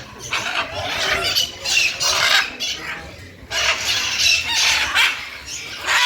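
Many birds chirping and squawking together in a dense, shrill chorus, with a short lull about halfway through.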